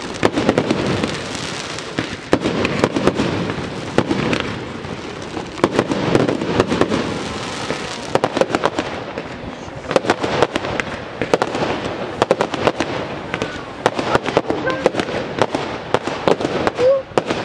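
Fireworks display going off in a dense barrage: many sharp bangs and cracks in quick succession over a continuous rushing noise.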